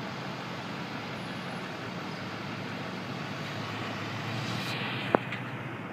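Steady road traffic noise from a street of congested cars and trucks, with a low engine hum underneath. A single sharp click about five seconds in.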